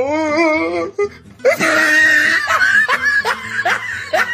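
Laughter over background music: a wavering laugh, then a run of repeated short bursts of laughing.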